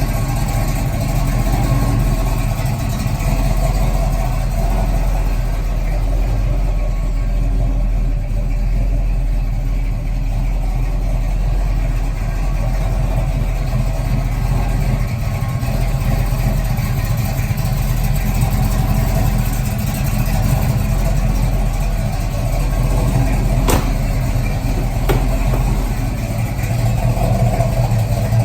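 A 1988 Box Chevy's engine running steadily at idle, a low, even sound with no revving. Two faint clicks come near the end.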